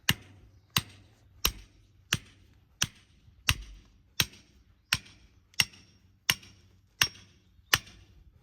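A hammer striking metal in a steady rhythm, about twelve blows at roughly one every 0.7 seconds, each with a short ringing tail. It is hard going with an ordinary hammer, a job better suited to a sledgehammer.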